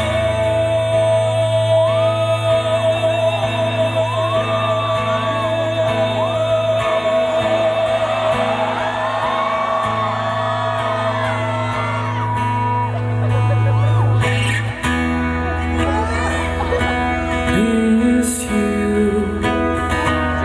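Live pop band music with guitar and bass, a singer holding one long note with vibrato for about twelve seconds. Audience members whoop and call out over it, and the bass line shifts about fifteen seconds in.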